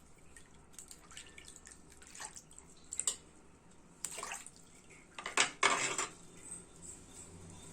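Lemons squeezed by hand over a bowl of soaking water: juice dripping and splashing into the water in a few short, irregular splashes, the loudest about five and a half seconds in.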